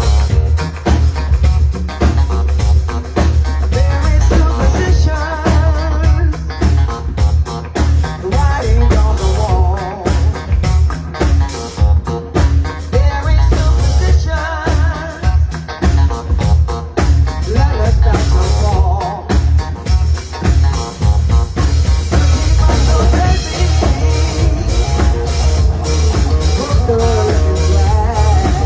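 A band playing, with drum kit, bass and guitar under a wavering lead melody line.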